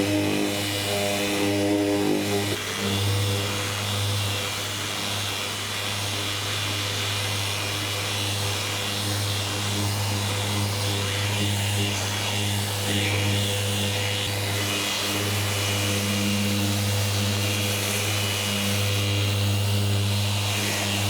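Power sander running steadily on a car body panel: a constant motor hum with the hiss of abrasive on the surface.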